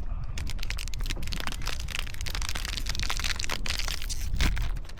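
Wind buffeting the microphone as a steady low rumble, with rapid crinkling crackles throughout.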